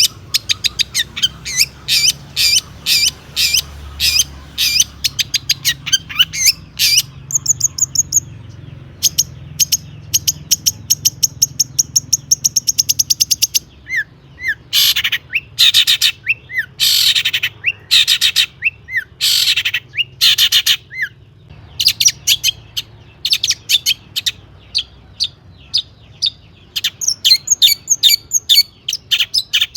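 Long-tailed shrike (cendet) in full song, mixing in phrases mimicked from other birds. It gives a series of sharp repeated notes, then a fast trill, then louder harsh calls around the middle, and ends with quick runs of notes.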